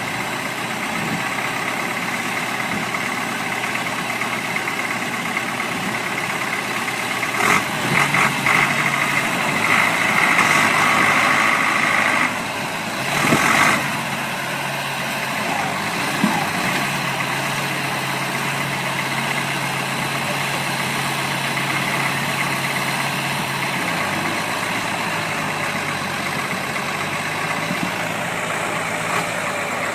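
A heavy vehicle's engine running steadily. It gets louder for a few seconds around the middle, and a short loud noise follows just after.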